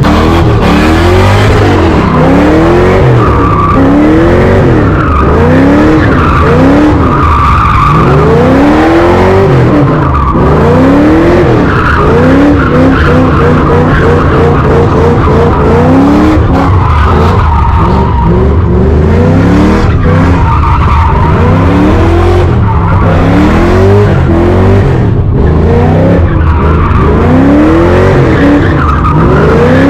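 A car doing donuts: its engine is revved up and down over and over, about once every second or two, while the tires screech against the pavement. It is loud throughout.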